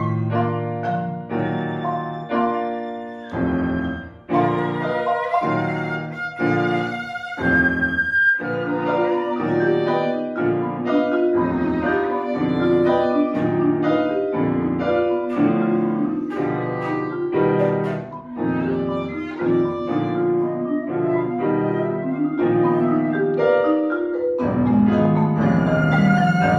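A contemporary chamber quartet of flute, violin, marimba and piano playing, with piano and violin most prominent. The notes come as many short, choppy chords and attacks, with a briefly held chord near the end.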